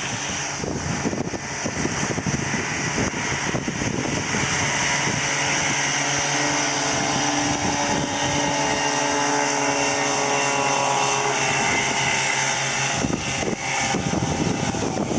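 Veterok-12 two-stroke outboard motor running at speed, pushing a loaded inflatable boat, with wind and water rushing. The engine's steady tone stands out most clearly through the middle, while wind noise is heavier near the start and end.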